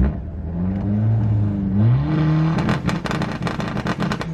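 Turbocharged Honda D15B four-cylinder engine revving up, then held on the two-step launch limiter, the rev cut crackling rapidly about eight times a second for over a second while it builds boost.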